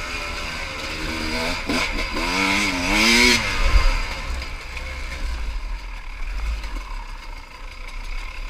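Small dirt-bike engine being ridden and revved: its pitch climbs and drops several times in the first three seconds or so, then it eases off to a low rumble.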